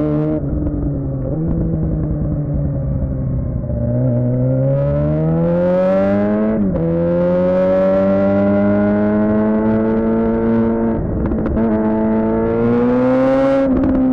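Suzuki GSX-R600's inline-four engine through a Yoshimura R11 exhaust, pulling through the gears under way: the revs climb, fall sharply at an upshift about seven seconds in, hold steady, then climb again and fall at another shift near the end.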